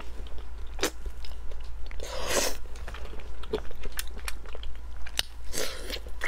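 Close-miked biting and chewing of browned roast pork: crunchy bites about two seconds in and again near the end, with wet chewing and small clicks between.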